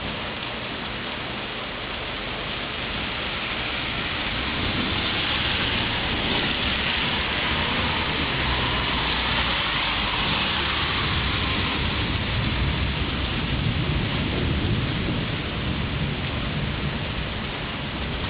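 Steady rain, growing louder a few seconds in, with a low thunder rumble rolling through the second half of the rain.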